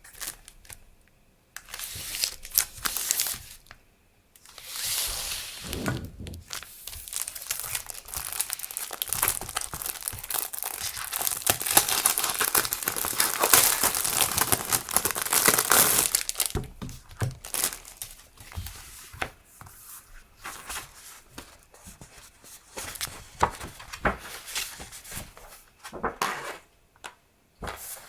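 Stationery packaging (plastic sleeves and paper) being handled and unwrapped. It crinkles and rustles in short bursts, then in a long continuous stretch, and ends in lighter scattered rustles and taps.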